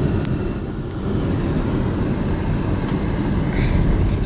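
Steady road and engine noise of a moving car heard from inside the cabin, with a couple of faint clicks.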